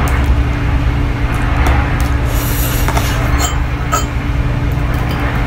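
Eating sounds: chewing a mouthful of pasta, with a few short clicks of a fork against a plate and a brief hiss, over a steady low hum.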